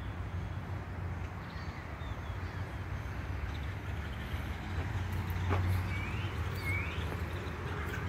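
Outdoor ambience: a steady low rumble with a few short rising bird calls, the clearest two close together near the end.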